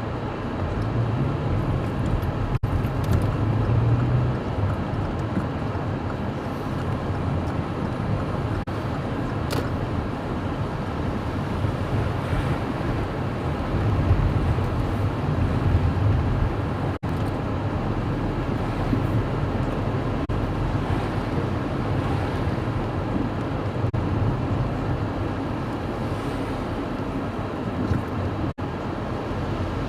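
Steady low rumble of motor-vehicle and road noise, cut by a few brief dropouts.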